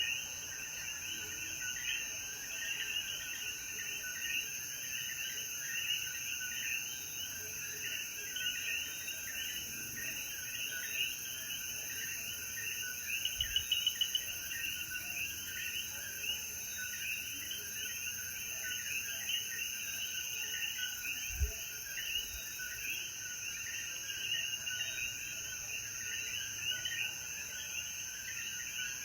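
Night chorus of many Puerto Rican coquí frogs, their short rising chirps overlapping without pause, over a steady high insect drone.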